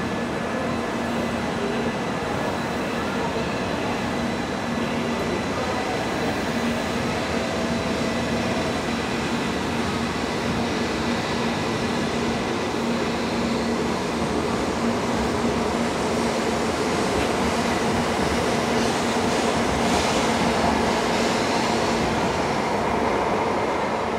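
Shinkansen Class 923 'Doctor Yellow' inspection train running past a station platform: a steady rush of wheels on rail with a steady hum running through it, growing a little louder near the end.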